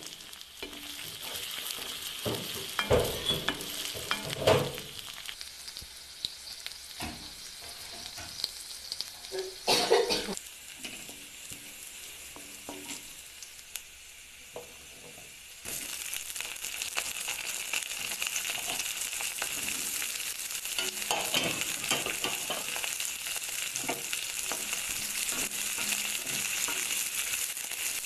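Paneer cubes sizzling as they fry in hot oil in a wok, with a few louder knocks and scrapes of stirring in the first half. About halfway through, the sizzle becomes louder and stays steady.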